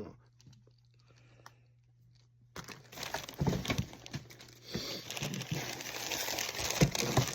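Packing paper or plastic wrapping crinkling and rustling as it is handled, starting about two and a half seconds in after a near-silent pause.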